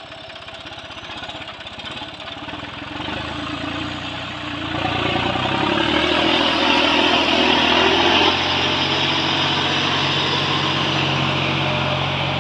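Tractor engine working, growing steadily louder, then easing off suddenly about eight seconds in to a steady, lower running note.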